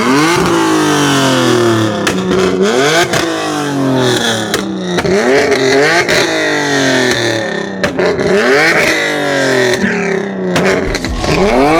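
High-performance car engine revved hard again and again, its pitch sweeping up and dropping back about every second or two.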